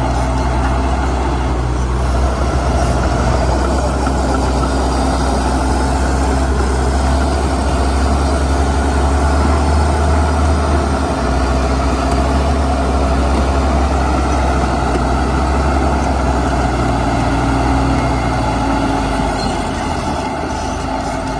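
Heavy diesel earthmoving machinery running steadily, a deep engine drone that eases off slightly near the end.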